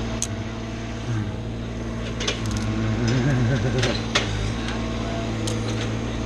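An engine idling steadily, with a few sharp clicks or knocks over it.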